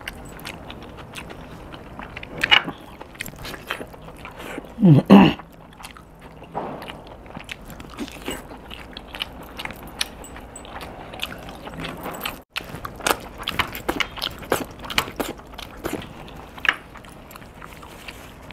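Close-miked eating sounds of a man eating a chicken leg piece with rice by hand: wet chewing, lip smacks and small clicks throughout. About five seconds in there is a short vocal sound from him, the loudest moment.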